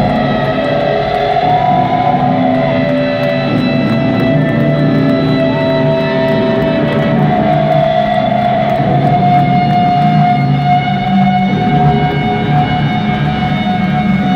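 Live electric guitars holding long feedback tones, with a few slow pitch glides, over a low sustained drone.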